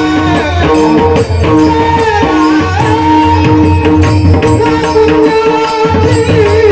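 Marathi devotional bhajan music: a held, sustained melody over a steady rhythm of tabla-style drum strokes.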